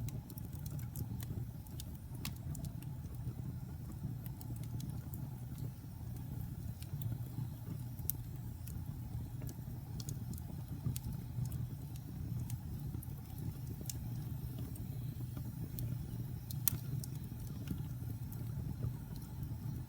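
Fire burning in a fireplace: a steady low rumble with sharp, irregular crackles and pops, one louder pop near the end.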